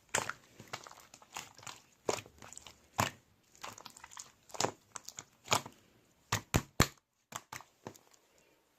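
Irregular crisp crunches and crinkles, one or two a second, with a brief pause about seven seconds in.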